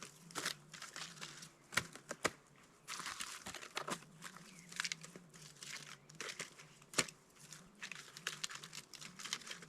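Tree bark being torn and crumpled by hand as kindling for a campfire: intermittent crinkling and tearing rustles with a few sharp snaps.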